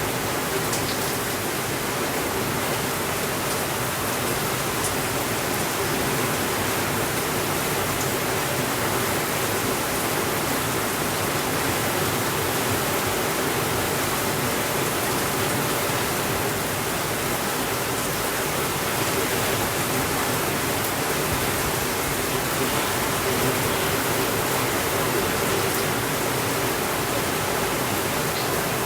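Steady rainfall, an even, unbroken hiss of falling water, with a few faint ticks on top.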